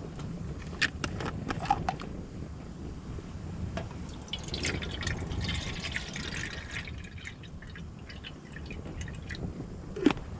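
Water poured and dripping into a container, most densely for a couple of seconds midway, with a few sharp clicks and knocks, over a steady low wind rumble.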